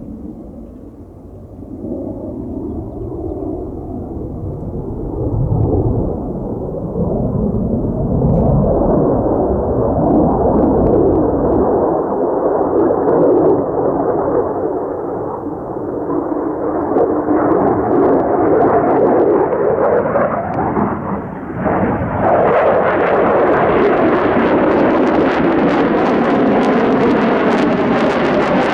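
F-35A fighter jet's Pratt & Whitney F135 engine rumbling in flight, growing louder and brighter as the jet comes closer, with a sharp rise in hiss and loudness about twenty-two seconds in.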